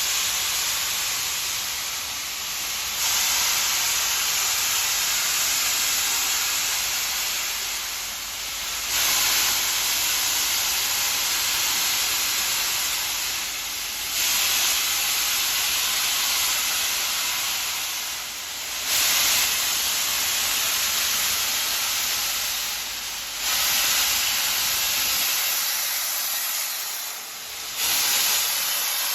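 Steam hissing from the Union Pacific Big Boy steam locomotive, steady and loud, swelling in regular surges about every four and a half seconds.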